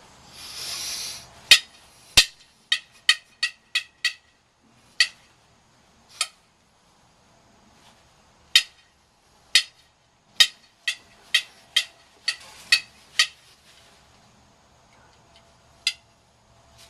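A person making a series of sharp clicking noises, in quick runs and single clicks spaced a second or more apart, after a short hiss at the start.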